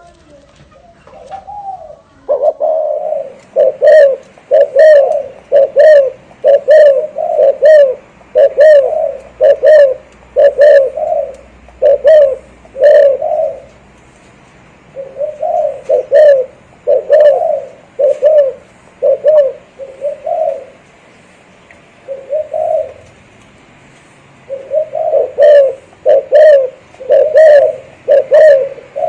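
Spotted dove cooing in the rolling 'thổ rền' style: a long series of low coo notes about one a second, pausing twice before going on.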